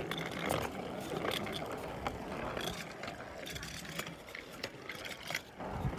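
A child's bicycle rolling over pavement: steady tyre noise with scattered clicks and rattles.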